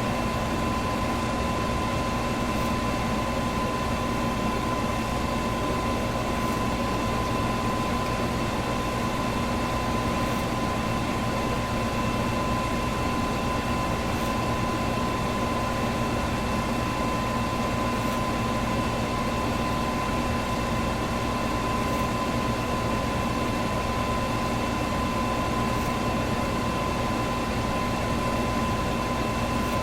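Electric fan running steadily: an even rush of air with a steady hum and a thin whine, and a faint high tick about every four seconds.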